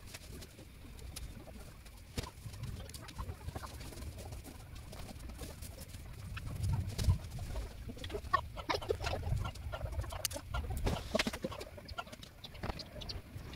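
Birds calling and clucking, coming thicker from about halfway through, over a low steady rumble.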